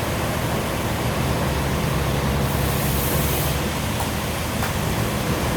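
Sawmill machinery running with a steady motor hum and noisy rumble, with a brief high hiss lasting about a second midway.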